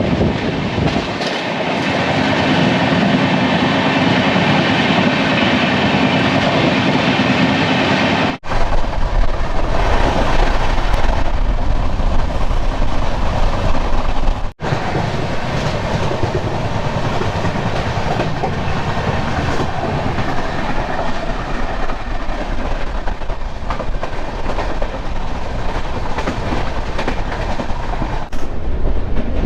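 Double-decker express passenger train running steadily along the track, its noise heard from aboard. The sound breaks off for an instant twice.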